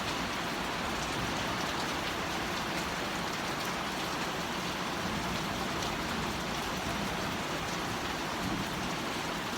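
Steady, gentle rain falling straight down, an even hiss with a few faint drips and taps.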